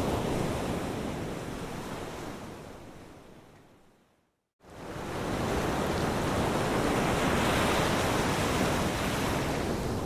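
Ocean surf washing steadily. It fades away to a brief moment of complete silence a little over four seconds in, then swells back within about a second and carries on steadily.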